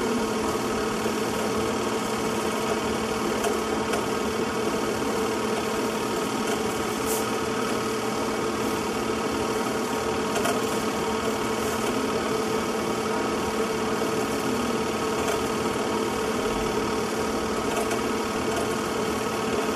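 A small motor running steadily at one unchanging pitch, with a few faint clicks.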